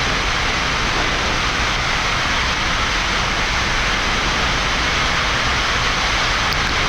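Steady rushing noise on a Boeing 787-9 flight deck as the engines are brought up to stabilized thrust at the start of the takeoff.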